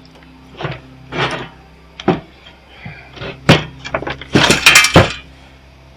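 Hand tools clanking and scraping on the metal parts of an old welder being taken apart: several separate sharp knocks, then a rattling scrape about four seconds in that ends in a hard knock. A faint steady hum runs underneath.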